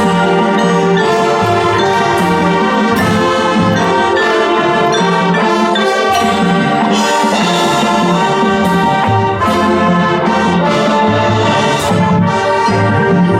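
High school marching band playing: full brass chords with mallet percussion, the notes changing every second or so without a break.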